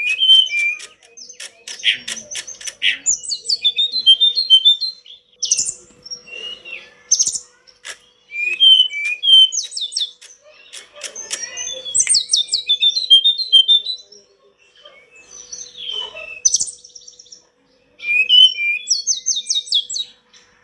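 Hill blue flycatcher (tledekan gunung) singing energetically: bouts of high sliding whistles, chirps and rapid trills, broken by short pauses.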